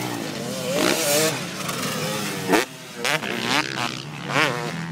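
Motocross bikes racing past, their engines revving up and dropping back again and again as riders work the throttle and shift gears, with several sharp surges in the second half.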